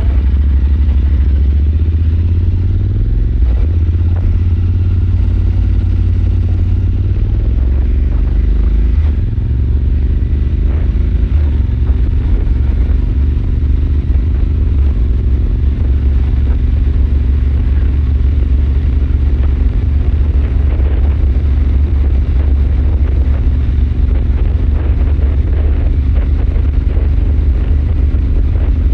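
Royal Enfield Super Meteor 650's parallel-twin engine running under way. Its pitch climbs, drops about nine seconds in, then holds steady at a cruise.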